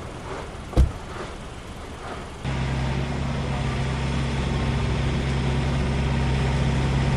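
A single sharp thump about a second in, then an engine running steadily at idle, a low even hum that cuts in suddenly about two and a half seconds in.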